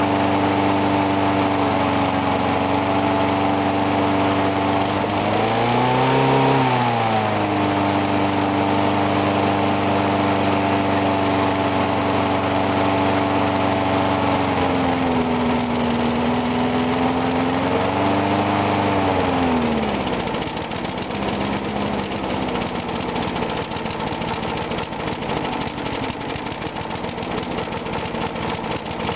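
Briggs & Stratton 4 hp single-cylinder lawn mower engine running just after a cold start, its speed rising and falling a few times. About twenty seconds in it drops to a lower, rougher idle.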